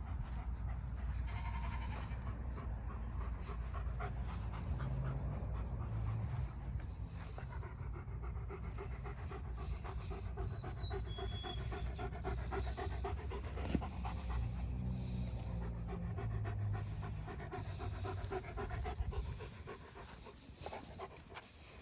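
A dog panting rapidly and steadily close to the microphone, with the panting fading out about three seconds before the end.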